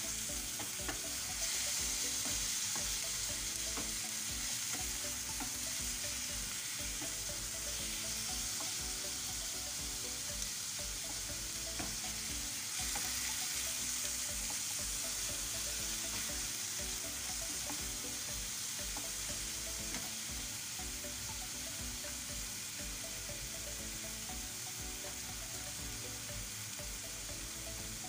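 Diced chicken and onion sizzling steadily in a frying pan while being stirred with a wooden spoon, with small scrapes of the spoon against the pan now and then.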